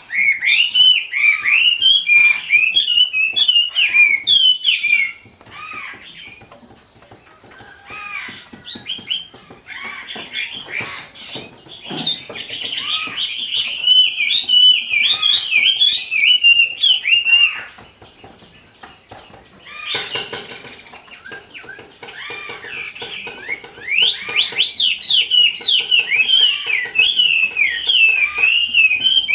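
A wambi songbird singing fast runs of short high chirps in loud stretches of several seconds, with quieter pauses between. A steady high hiss runs underneath.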